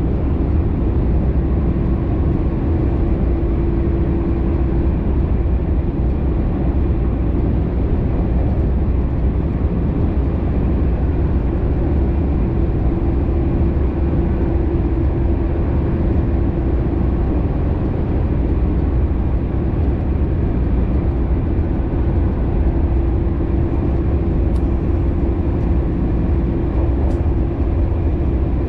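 Keisei Skyliner express train running at speed, heard from inside the car: a steady low rumble of wheels on rail, with a steady hum running over it.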